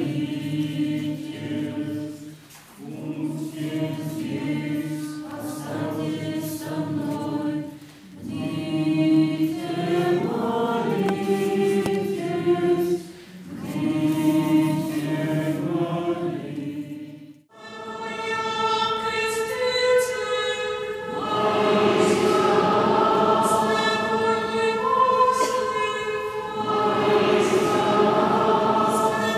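Church choir singing in phrases separated by short breaths; about two-thirds of the way through, it cuts abruptly to a different choral passage in higher voices.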